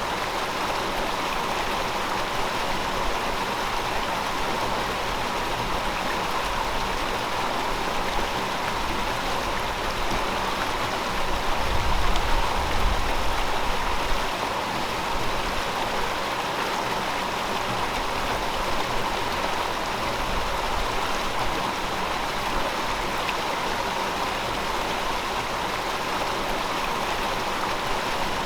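Gentle river flowing steadily, an even rush of water. A low rumble swells for about two seconds near the middle.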